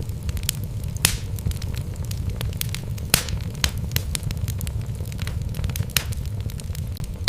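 Wood logs burning in a fireplace: a steady low rumble of the flames with irregular sharp crackles and pops from the burning wood, a few louder pops about a second in, about three seconds in and near six seconds.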